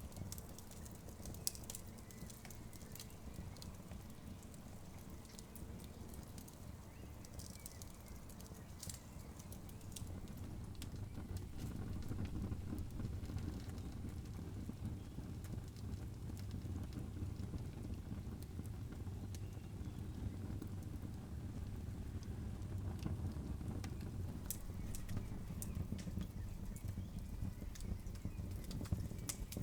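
Campfire crackling: irregular sharp pops and snaps over a steady low rumble of the burning fire, which grows a little louder about a third of the way in.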